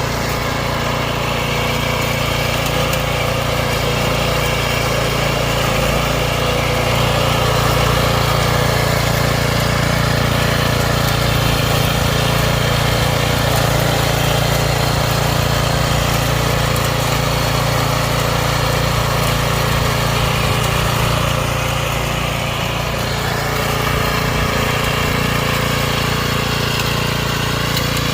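Homemade remote-controlled lawn mower running steadily, a constant mechanical drone.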